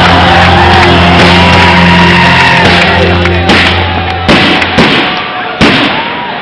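Loud music with a bass line plays under a crowd shouting and whooping. The music cuts out a little over four seconds in, and several sharp firework bangs go off over the crowd's voices.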